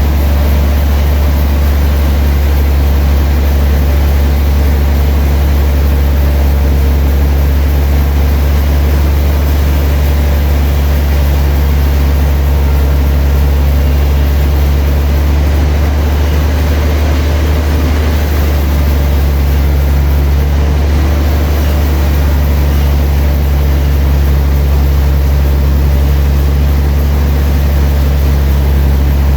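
Sawmill machinery running steadily, a loud, even low hum that holds without change.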